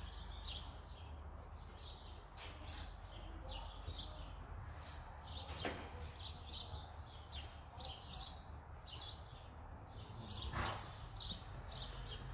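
Small birds chirping, short high chirps coming several times a second, over a low steady rumble.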